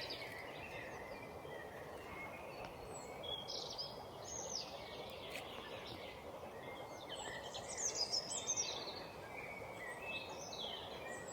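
Small songbirds singing short, high, warbling phrases, three bursts of song over a steady low background noise.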